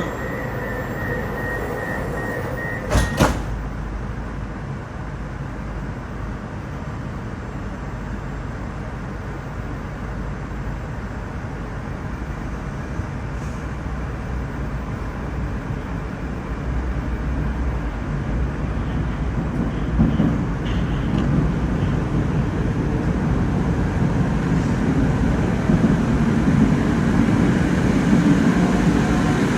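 Metro train doors shutting with a sharp thump about three seconds in, ending a steady door-warning tone. The train then pulls out and its rumbling running noise builds as it gathers speed.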